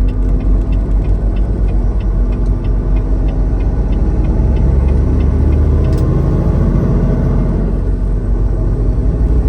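Semi-truck's diesel engine and road noise heard from inside the cab, a steady low rumble that grows a little louder about halfway through as the truck gets back on the interstate. A faint regular ticking runs along with it, about two ticks a second.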